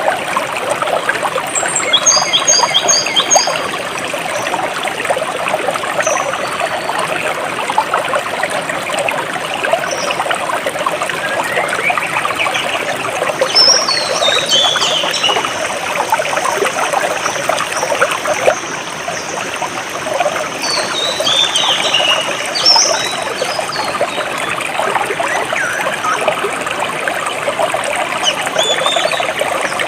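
Flowing stream water trickling steadily, with birds calling over it: a quick run of short high chirps about two seconds in, and descending runs of notes around the middle and again a few seconds later.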